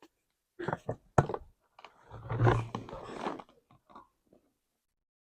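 Handling noise from plastic containers: a few sharp clicks and knocks, then a longer scraping rustle, ending in a couple of faint ticks before the sound cuts out.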